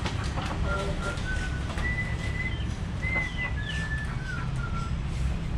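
A tune whistled as a string of about seven short held notes, some linked by quick pitch glides, over a steady low rumble.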